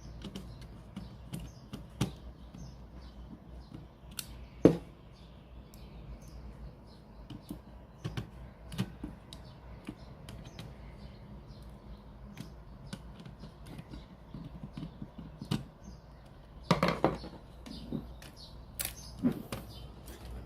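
Scattered small clicks and knocks of tools and parts being handled during a radio cassette repair, over a steady low hum. One sharper knock comes about five seconds in, and a quick run of clicks comes near the end.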